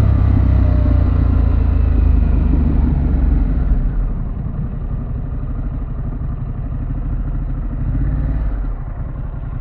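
2024 Harley-Davidson Pan America's 1250 V-twin engine and exhaust running while the bike is ridden, a steady low rumble that drops in loudness about four seconds in as the rider eases off the throttle.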